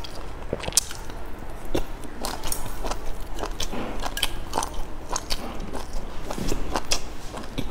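Close-up mouth sounds of someone biting and chewing spiced food off wooden skewers: a run of short, sharp wet clicks and crunches at irregular intervals.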